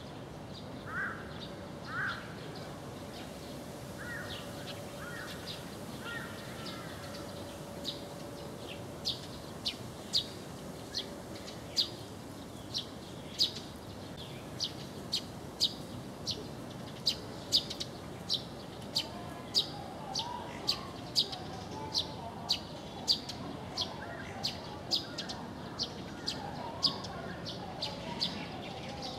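Magpie calls: two harsh calls near the start and a short chatter a few seconds later. From about a third of the way in, another bird gives a steady run of short, sharp, high chirps, about one to two a second, louder than the calls, with more low chattering in the last third.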